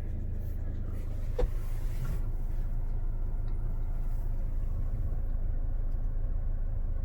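Steady low rumble of a car idling, heard from inside the cabin, with a single sharp click about a second and a half in.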